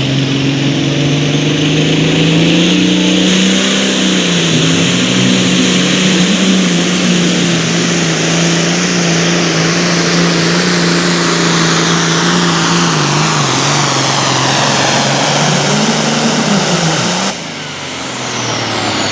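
Pulling tractor's engine running flat out under load on a pull, with a high whistle over it. About seventeen seconds in, the engine cuts back sharply and the whistle winds down as the run ends.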